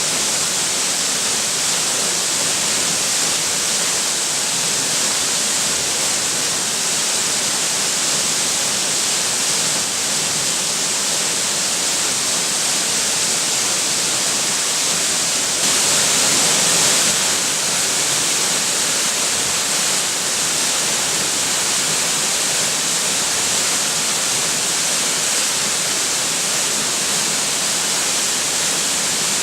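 Waterfall crashing down steadily, a loud, even rush of falling water that swells briefly louder about halfway through.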